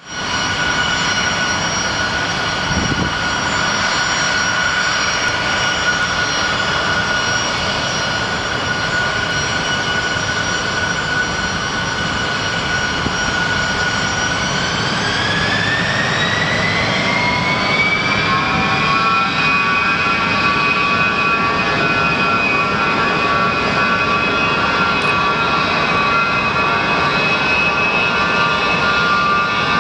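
Gulfstream IV's Rolls-Royce Tay turbofan engines running on the ground during an engine test, a steady jet whine over a rushing roar. About halfway through the whine rises in pitch as the engines are spooled up, then holds steady at the higher setting.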